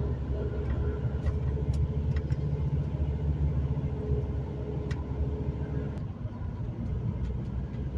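Steady low rumble of a vehicle driving along a highway, heard from inside the cabin, with a few faint clicks. A faint steady hum underneath stops about six seconds in.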